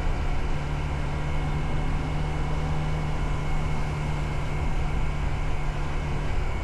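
Motorcycle engine running at a steady pitch while riding, under a constant rushing noise.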